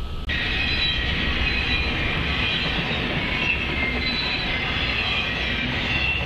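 Cars of a BNSF double-stack intermodal freight train rolling past at speed: a steady rush of wheels on rail, which jumps louder suddenly just after the start.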